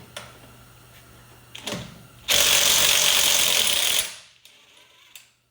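Impact wrench with a 1-1/8 inch socket hammering for about two seconds on a stubborn nut, then stopping suddenly. A few faint clicks come before the burst.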